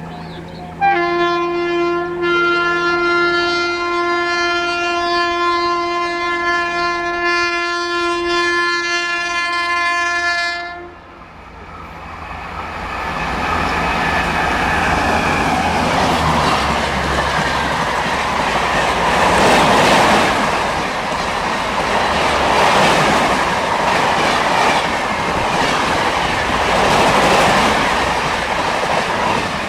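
Indian Railways locomotive horn held on one steady note for about ten seconds. Then the train passes at speed, its rush and rumble building from about twelve seconds in, with the wheels clicking rhythmically over the rail joints.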